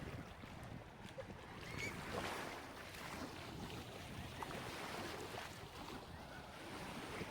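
Gentle waves lapping and washing on the shore, heard as a steady, softly swelling wash.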